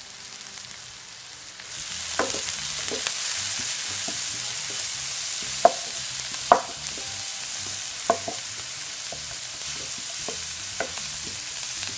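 Sliced leeks, green chillies and garlic sizzling in hot coconut oil in a non-stick frying pan while being tempered and stirred with a wooden spatula, which knocks against the pan now and then. The sizzle gets louder about two seconds in.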